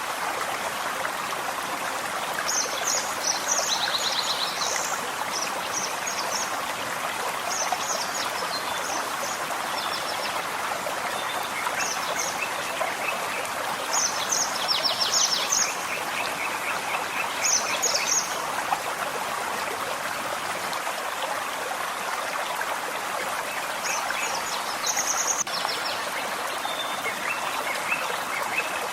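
Forest stream running steadily, a constant rushing water sound. Small birds chirp over it in short groups of high calls every few seconds, with a few quick lower trills.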